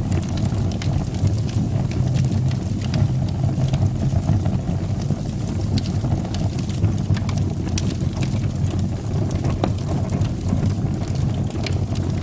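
Fire burning in a fireplace: a steady low roar of flames with frequent small crackles and pops.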